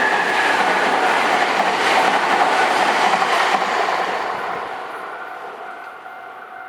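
Nankai Main Line electric train passing over a level crossing, wheels clattering on the rails. It is loud at first and fades away from about four seconds in as the train moves off.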